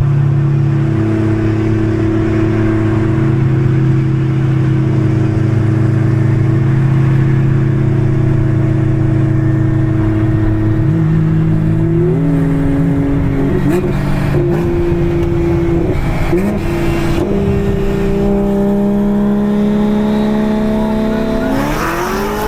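Car engine running at steady low revs, then changing revs several times about halfway through, and climbing quickly in pitch as it starts to accelerate near the end.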